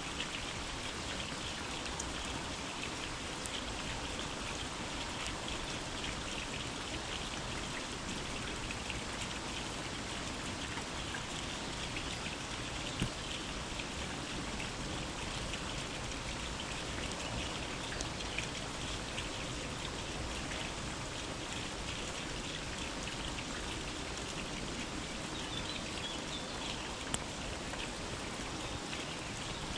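Steady rain falling in a forest, a dense even patter with a few louder single drops now and then.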